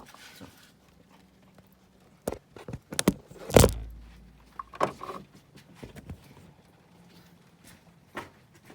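Scattered knocks and clicks of parts and tools being handled while an oil filter housing cap's seals are changed, the loudest a heavy thud about three and a half seconds in.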